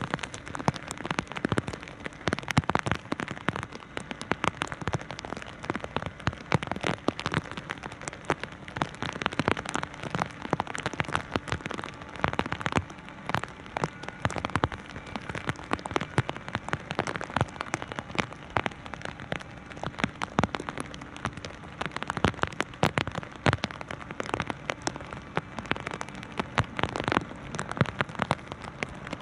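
Heavy typhoon rain striking a surface close to the microphone: a dense, irregular patter of sharp drop hits over a steady hiss of falling rain.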